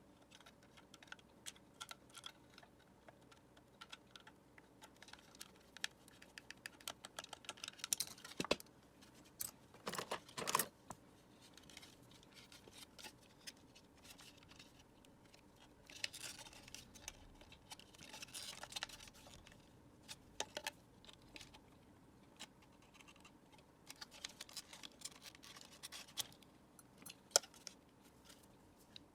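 Faint, irregular clicks, taps and scraping from hands working on the plastic parts of a Dyson vacuum cleaner being taken apart. A louder scraping rustle comes about ten seconds in.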